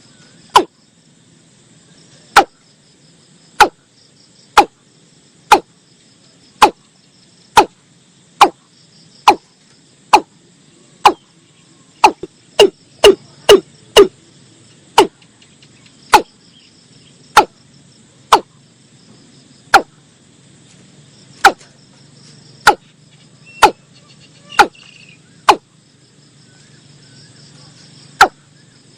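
Watercock calling: a long series of sharp, knocking 'kok' notes about once a second, speeding up into a quick run about halfway through, over a steady high chorus of insects.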